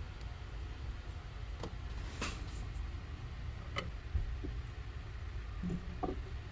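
Steady low hum with a few scattered light clicks and knocks, like objects being handled.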